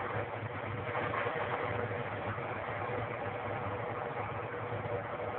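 Steady hiss with a constant hum underneath, typical of a 1-gallon wallpaper steamer running and blowing steam to melt freezer frost.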